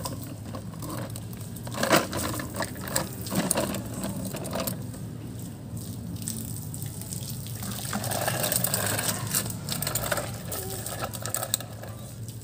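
Water splashing and running, with a few sharp knocks about two to four seconds in.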